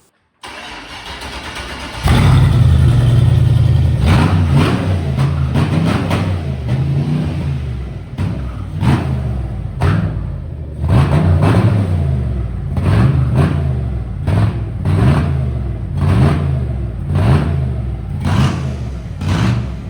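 Turbocharged 6-liter V8 in a C10 truck running, jumping to a loud high rev about two seconds in, then revved up and down over and over, about once a second in the second half.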